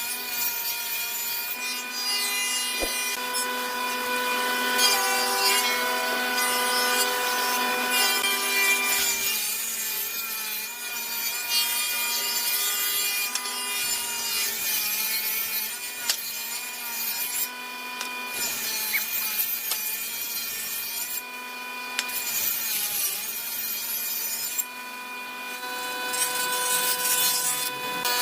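Power tool cutting wood: a steady motor whine over the rasp of the cut, sagging in pitch a few times as the tool takes load.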